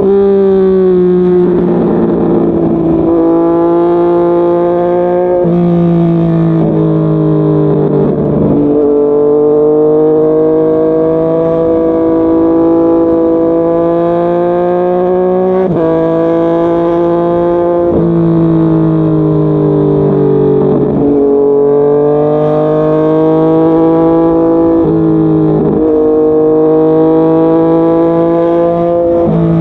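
Yamaha MT-09's three-cylinder engine running under way. The engine note climbs slowly and changes pitch sharply at each gear shift, several times.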